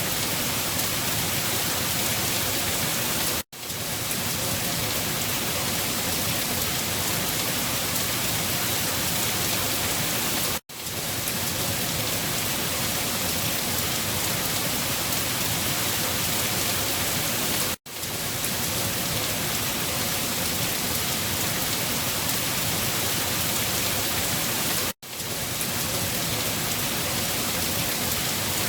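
Steady, dense rain hiss at an even level. It cuts out for a split second four times, about every seven seconds, and comes straight back each time.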